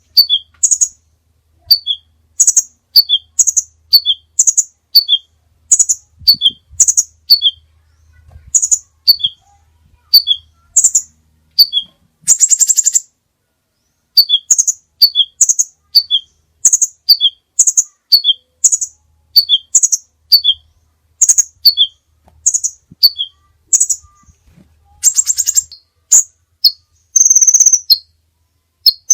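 Songbird singing: a short, high, descending three-note phrase repeated about once a second, broken twice by a rapid buzzy trill and ending on a held whistle. A faint low hum runs underneath.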